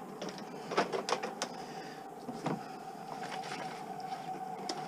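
A few short knocks and clicks of objects being handled, over a steady mid-pitched hum.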